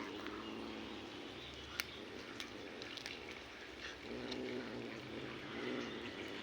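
Domestic cat growling low, swelling twice about four and five and a half seconds in, with a few faint sharp clicks. This is the growl of a cat guarding a squirrel it has caught.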